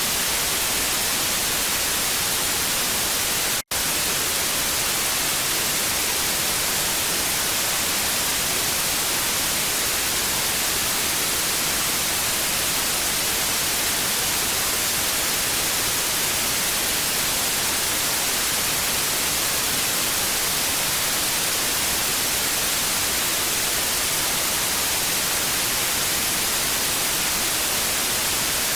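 Television static: a steady, even hiss weighted toward the high end, broken by a momentary dropout to silence a little under four seconds in.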